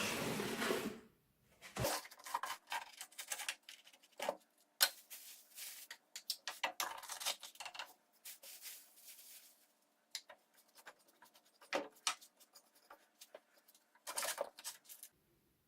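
A small scoop scraping and knocking in a fireplace firebox as ash and burnt debris are scooped out: irregular scrapes and clinks with short pauses between them.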